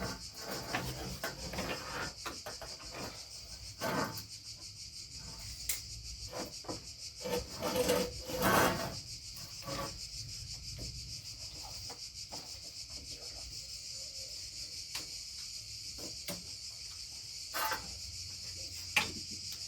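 Metal and plastic car parts being handled, rubbing and scraping against each other, with scattered clicks and knocks over a steady hiss; the loudest scraping comes about eight seconds in.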